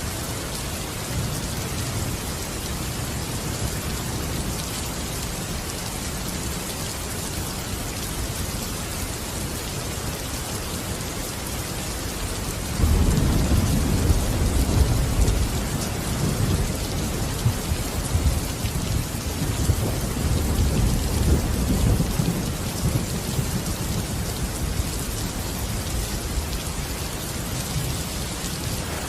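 Steady heavy rain hissing, with a long low roll of thunder that swells about halfway through and rumbles for several seconds before easing back.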